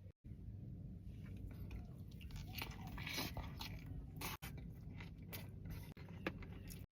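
Close-miked eating sounds: a taco being bitten and chewed, with a burst of crunching about three seconds in and a few sharp mouth clicks.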